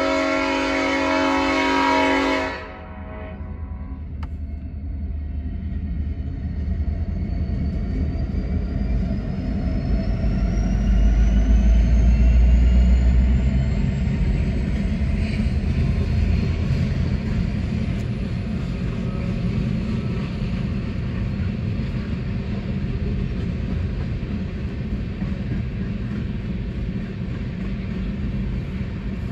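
A train horn blows for about two and a half seconds. Then an empty BNSF coal train rumbles past, loudest about ten seconds in as its EMD SD70ACe diesel locomotives go by, followed by the steady rolling clatter of empty coal gondolas on the rails.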